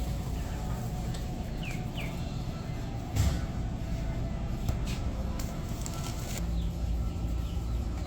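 A few chicks peeping now and then in their box, over a steady low rumble, with one thump a little after three seconds.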